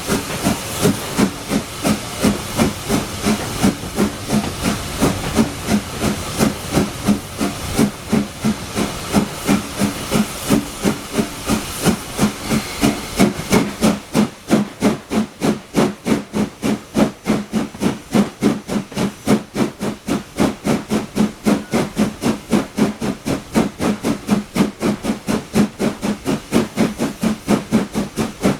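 LSWR S15 No. 506, a two-cylinder 4-6-0 steam locomotive, working hard with a rapid, even exhaust beat, about four beats a second. A loud hiss of steam rides over the beats and drops away about halfway through, leaving the exhaust beats clearer.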